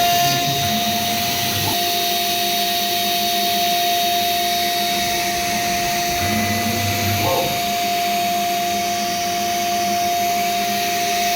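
CNC router spindle running with a steady whine over a hiss as its fine bit cuts a lattice pattern into 12 mm Corian solid-surface sheet.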